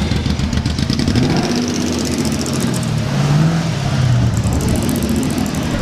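A car engine running, its pitch rising and falling as it revs.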